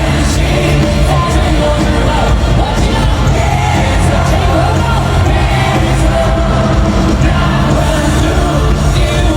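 Live pop music with singing over a band with heavy bass, played at stadium volume through the venue's sound system, with yells from the audience.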